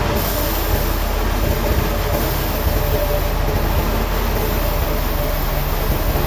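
Heavy machinery running steadily: a loud, even rumble with a faint steady hum.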